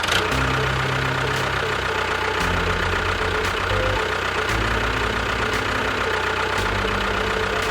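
An engine running steadily at idle, its low tone shifting in steps.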